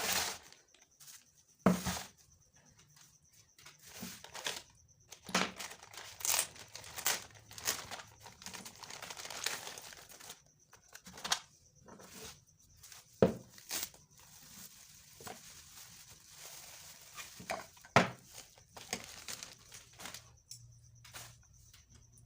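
Packaging being handled and opened: irregular crinkling and tearing, broken by three louder sharp knocks.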